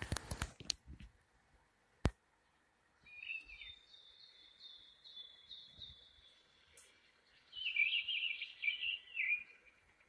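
A small songbird twittering in high, quick phrases, with a louder, denser run of notes near the end. A few faint rustles and a sharp click come in the first couple of seconds.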